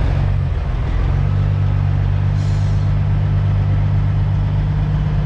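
Semi-truck's diesel engine running as the rig pulls forward, its low note strengthening and settling about a second in. A short hiss of air about two and a half seconds in.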